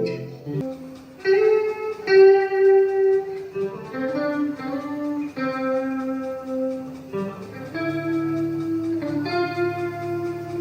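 Bacchus electric guitar played slowly through an amplifier: a melody of held notes and double-stops, each ringing a second or two before the next.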